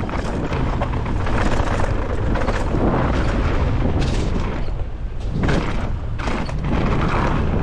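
Mountain bike descending a dirt trail at speed: steady wind rumble on the microphone, tyres on dirt, and sharp knocks and rattles as the bike hits bumps.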